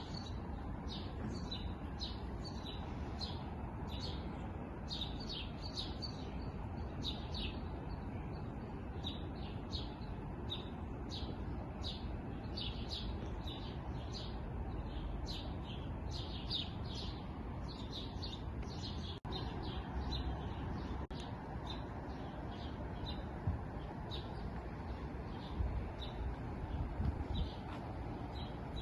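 Small birds chirping in a continuous dense chorus of short, high chirps, over a steady low rumble.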